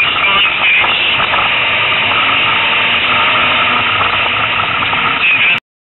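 Loud, steady engine and road noise inside a race car's cockpit. It cuts off suddenly near the end.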